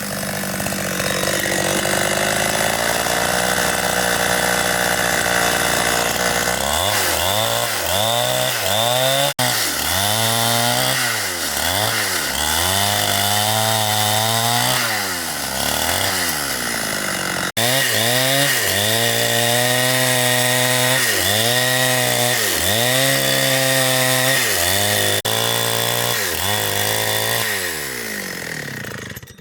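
Two-stroke chainsaw running at steady high revs, then working a cut with its engine note dipping and recovering about once a second. It cuts off suddenly at the end.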